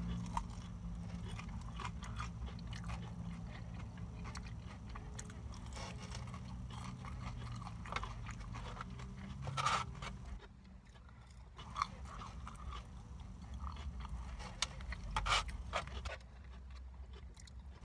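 A person chewing crunchy fried food close to the microphone, with scattered crunching bites and mouth sounds. A low steady hum sits underneath for the first half and stops about halfway through.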